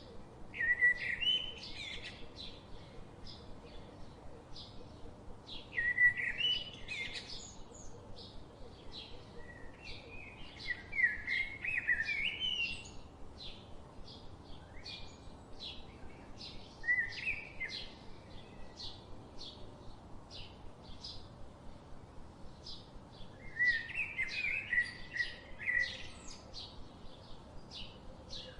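Songbirds chirping and singing: a steady run of short high chirps about twice a second, with louder warbling song phrases breaking in every few seconds.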